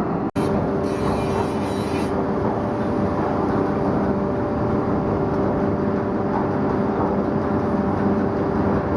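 Ship's anchor windlass heaving in the anchor chain: steady mechanical running with a steady hum. There is a brief drop-out in the sound just after the start and a short hiss in the first two seconds.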